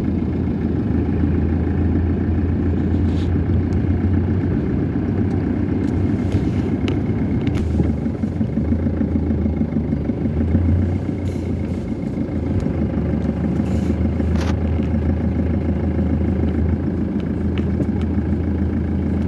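Car engine and road noise while driving slowly: a steady low rumble with a few faint ticks and rattles.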